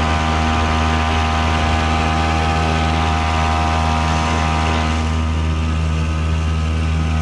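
Small 3.5 hp Chinese outboard motor running at a steady, unchanging speed, its carburetor freshly adjusted so it runs smoother.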